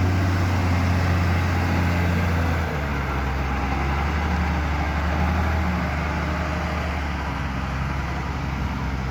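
Heavy construction machine's engine running steadily with a low hum; its note and level drop slightly a little under three seconds in.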